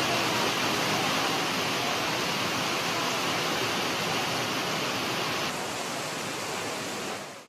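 Heavy rain pouring down steadily, a dense even hiss that cuts off abruptly just before the end.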